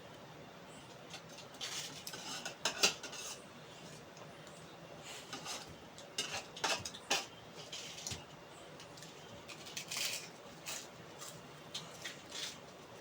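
Eating utensils clinking and scraping against a dish while a meal is eaten, in irregular clusters of sharp clicks.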